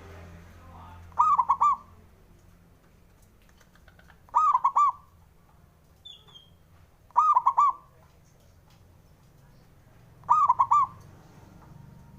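Zebra dove (perkutut) singing its cooing song, four phrases about three seconds apart, each a quick run of three or four notes.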